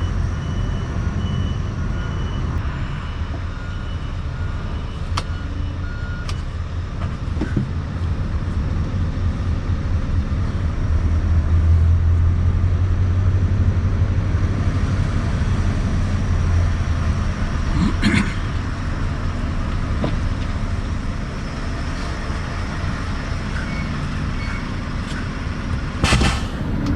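Scania V8 truck engine running steadily, with a low rumble that swells for a few seconds in the middle and a few light clicks.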